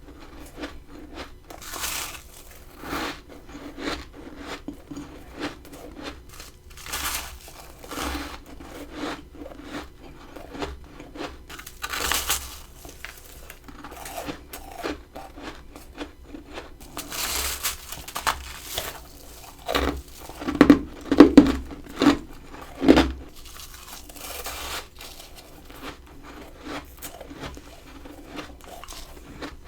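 Close-miked crunching of a person biting and chewing freezer frost: irregular crisp crunches, with the loudest run of bites about 20 to 23 seconds in.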